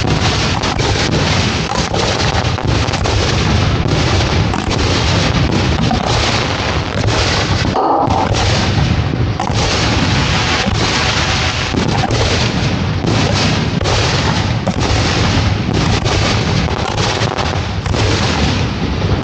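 Fireworks shells launching and bursting in a dense, continuous barrage, many bangs a second with almost no let-up, broken by a brief lull about eight seconds in.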